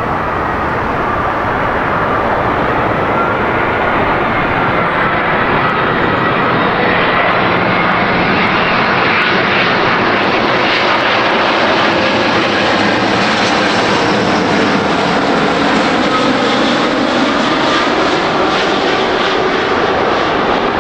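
Jet airliner's engines passing close: a loud, steady rush of noise with a wavering whine, building over the first few seconds and then holding.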